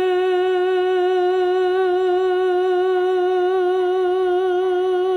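A woman's voice holding one long sung note with a slight vibrato: the drawn-out last word of the song.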